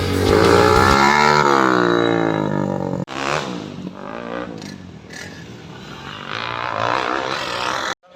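Dirt-bike engines revving, their note rising and falling, broken by an abrupt cut about three seconds in.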